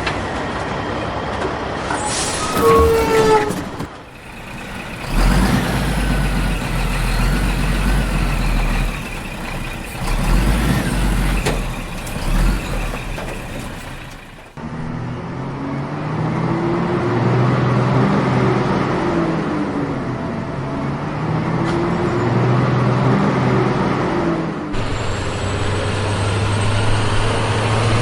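Vehicle sounds in several abruptly cut segments, with engine-like rumbling and hissing. In the second half a low tone slowly rises and falls twice.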